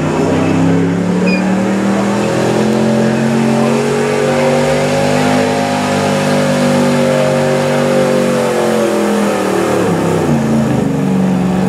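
Pulling pickup truck's engine at full throttle dragging the sled, its pitch climbing slowly over the first half, holding, then dropping away in steps over the last few seconds as the run ends.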